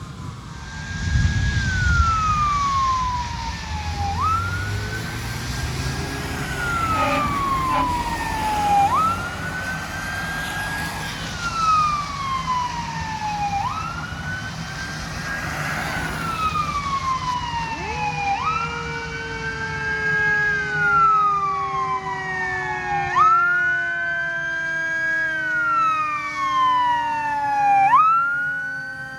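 Fire engine siren on a wail, rising quickly and falling more slowly in a cycle that repeats about every four seconds. From about two-thirds of the way in, a second, lower siren tone glides slowly downward under it. A vehicle engine rumbles low in the first few seconds, and a steady hiss lies under it all.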